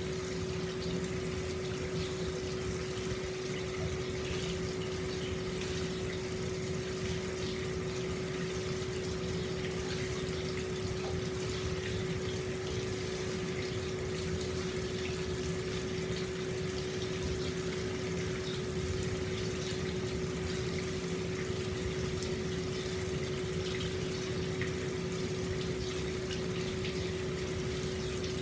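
Hot spring water flowing steadily into an open-air bath: a constant rush of running water with a steady hum beneath it.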